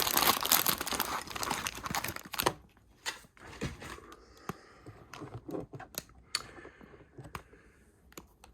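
Lego set packaging being torn and crinkled open for about two and a half seconds, then quieter scattered light clicks and rustles as the contents are handled.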